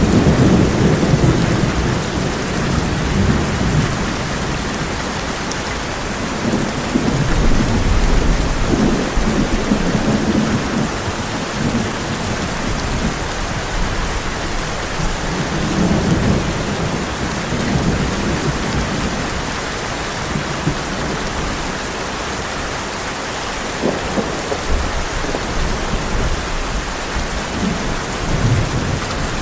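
Heavy rain drumming steadily on a tin roof, with rolling thunder that swells and fades several times, loudest right at the start and again about seven to ten seconds in.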